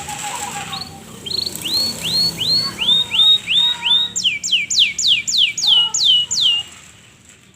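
Canary singing loudly: a run of short repeated notes that sweep upward, then a faster series of louder whistles that each fall sharply in pitch, about three a second, stopping about a second before the end.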